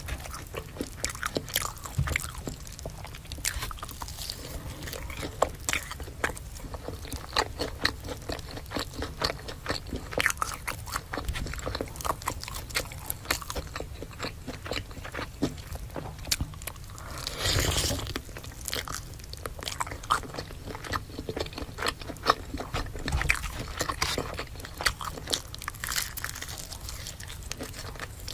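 Close-miked eating: biting into and chewing crisp fried food, a steady run of irregular small crunches and clicks, with one longer, louder crunching noise a little past halfway.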